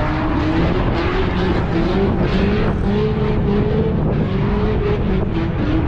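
Car engine revving hard and continuously, its pitch climbing and dropping back about once a second over a heavy rumble.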